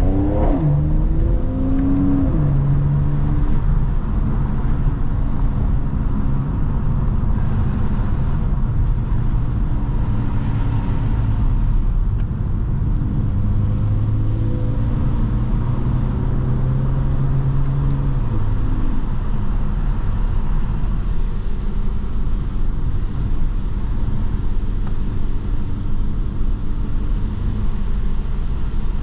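Mercedes-AMG C43 engine and exhaust while driving. The pitch sweeps up and back down in the first second, then holds and shifts gently through steady cruising, over a constant low road rumble.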